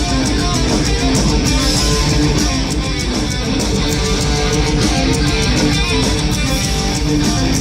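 Heavy metal band playing an instrumental passage: electric guitar notes over bass and a steady, dense drum beat.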